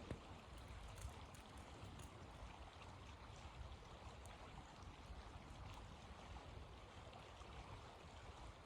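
Faint, steady wind noise: a low rumble with a soft rushing hiss and a few faint ticks.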